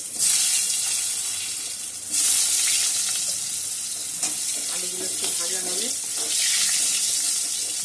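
Potato chunks sizzling in hot oil in a wok as they are dropped in by the handful. The sizzle surges as each new handful goes in, at the start and again about two seconds in, then settles to a steady frying hiss.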